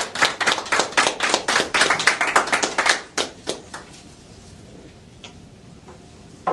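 People applauding with distinct, separate hand claps that die away about three seconds in, a few last stray claps, then quiet room tone.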